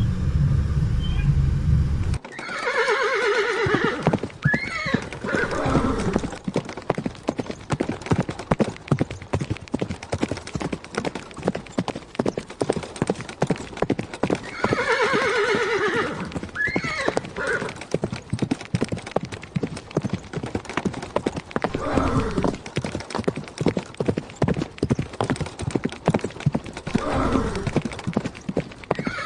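A horse whinnying several times, each call a long falling neigh, over a steady clip-clop of hooves. A low rumble in the first two seconds cuts off abruptly.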